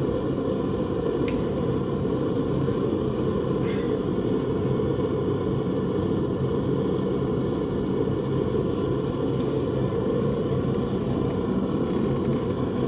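Propane forge burner running steadily: an even, low rush of noise while the steel heats. There are two faint clicks, about a second and about four seconds in.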